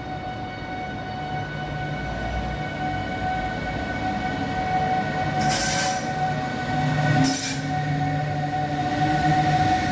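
A train moving through the station with a steady high-pitched wheel squeal over a low running hum, with two short hisses a second and a half apart about halfway through.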